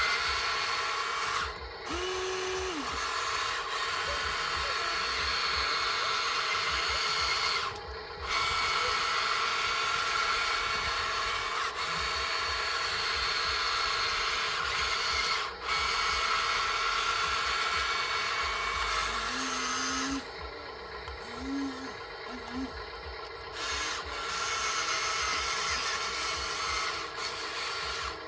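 Electric motors and gearboxes of a radio-controlled construction toy whining steadily, like a small power tool. The whine cuts out briefly a few times and runs quieter for a few seconds about two-thirds of the way in.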